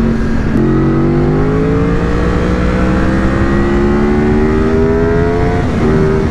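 Yamaha R1 sport bike's inline-four engine pulling hard under acceleration, its pitch climbing steadily for about five seconds, then dropping near the end at an upshift.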